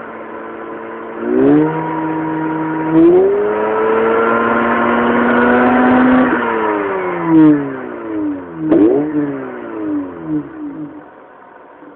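Mazda RX-8's rotary engine through a Suruga Speed aftermarket muffler, revving up in two steps and holding high revs, then falling away through several quick blips and settling towards idle near the end. The sound is muffled, heard through a phone recording.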